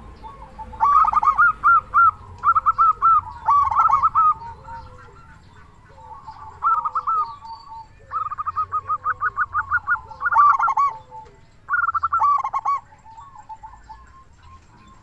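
Zebra doves (perkutut) cooing: bursts of rapid, rhythmic repeated notes in several phrases, with a lower, slower series of short coos running underneath.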